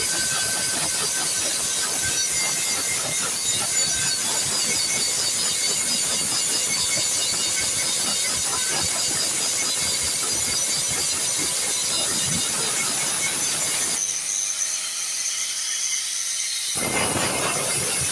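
Steady loud hissing noise, strongest in the high range. About fourteen seconds in, the lower part drops away for a few seconds before the full hiss returns.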